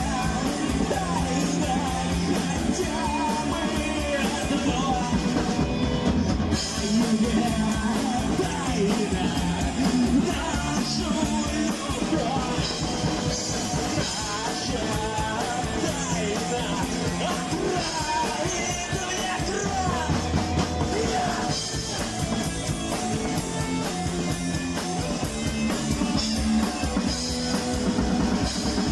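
A rock band playing live, drums and guitars with a singer's voice.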